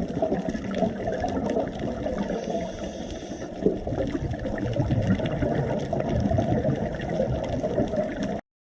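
Water rushing with a dense, churning noise that cuts off suddenly near the end.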